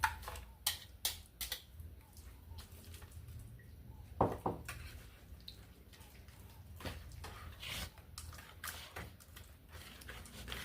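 Wet pumpkin-bread ingredients being mixed in a bowl: faint, irregular wet clicks and scrapes, with a louder knock about four seconds in.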